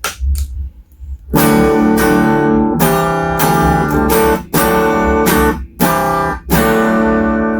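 Electric guitar, a few faint muted string scratches, then a series of six or seven strummed chords, each left ringing briefly before the next.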